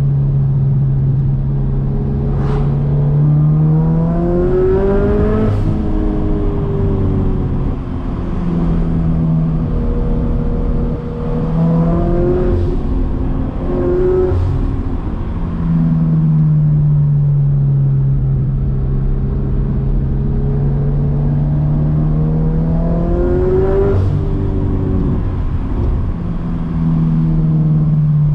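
Turbocharged Scion FR-S's flat-four engine under way, cruising at steady revs and then revving up and easing off several times, its pitch climbing and dropping back. Short sharp noises come at the top of several of the rev rises.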